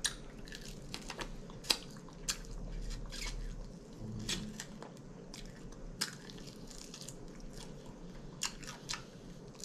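Eating air-fried chicken wings: biting and chewing, with irregular sharp crunches and clicks as the meat is gnawed off the bones.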